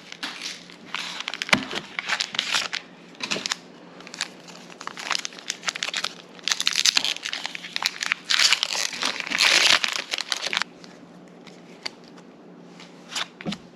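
Foil wrapper of a Pokémon booster pack being crinkled and torn open, in irregular bursts of crackling that go quiet a few seconds before the end.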